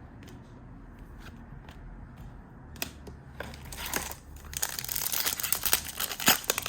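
Plastic wrapper of a trading card pack crinkling and crackling as it is torn open and handled. It starts faint with a few scattered clicks, then grows loud and dense about halfway through.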